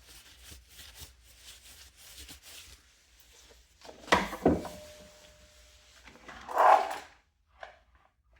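Box fan parts being handled on a work surface: light rustling, then two sharp knocks in quick succession with a short metallic ring after them, then a louder scrape or rub.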